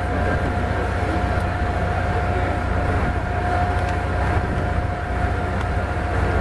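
A steady mechanical drone: a constant high whine over a low rumble, unchanging throughout.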